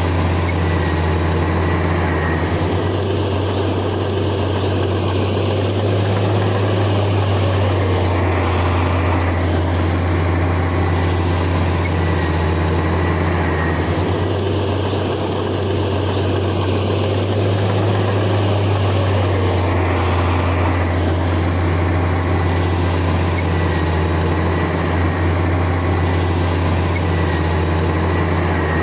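Heavy diesel engine of a Komatsu bulldozer running steadily under load while it pushes soil. The note swells and eases in a repeating cycle about every eleven seconds.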